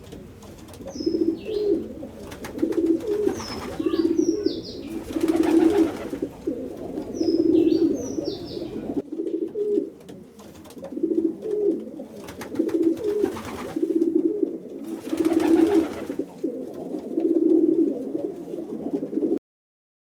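Pigeons cooing over and over in low, rolling phrases, with a few short, higher bird chirps in the first half. The cooing cuts off just before the end.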